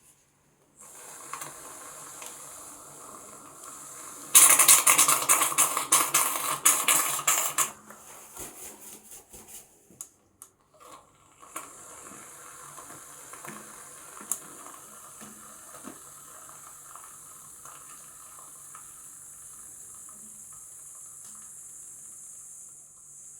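Shaving foam fizzing and crackling. It is loudest in a dense crackling hiss lasting about three seconds, starting a few seconds in, then settles to a softer, steady fizz.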